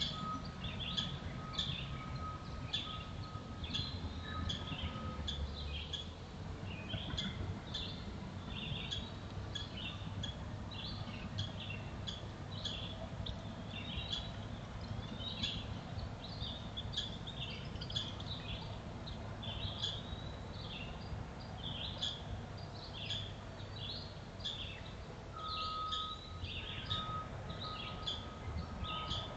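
Small birds chirping, a dense run of short high calls repeating throughout over a low background rumble. A thin steady high tone sounds during the first few seconds and again near the end.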